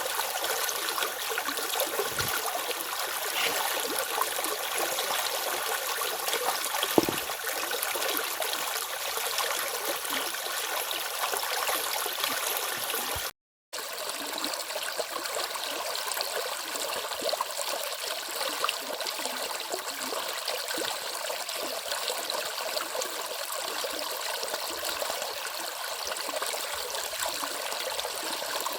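Stream water flowing steadily over rocks, an even rushing and babbling. It cuts out for a moment about halfway through.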